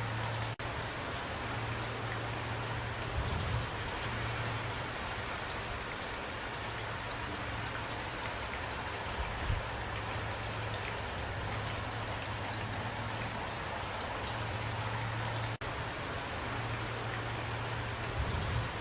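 Steady rain falling, an even hiss with scattered drops ticking, over a low rumble. The sound cuts out for an instant twice.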